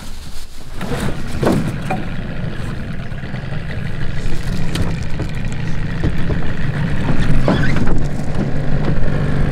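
Boat motor running steadily, growing louder over the last few seconds.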